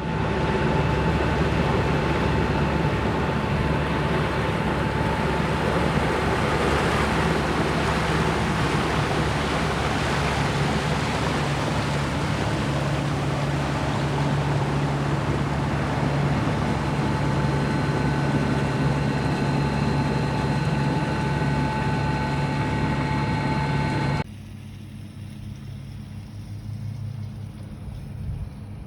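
A sailboat's inboard engine running steadily under way, a low drone under a broad rush of water and wind. About 24 seconds in it cuts off abruptly to a much quieter low hum.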